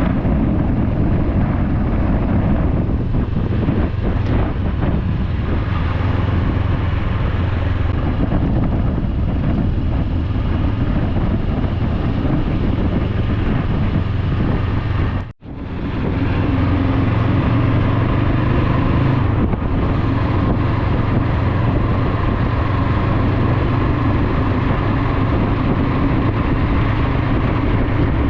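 Motorcycle engine running steadily under way, with wind noise on the microphone. The sound cuts out for an instant about halfway through, then carries on.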